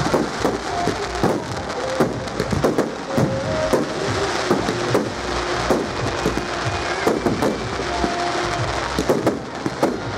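Fireworks display: a quick run of bangs and crackles from bursting shells, over music with held notes played for the show.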